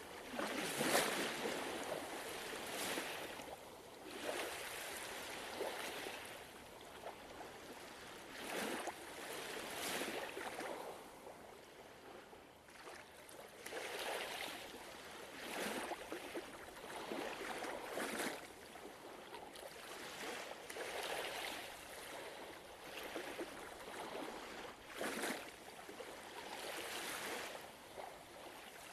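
Gentle ocean waves lapping and washing on a shore, with soft splashes every second or two.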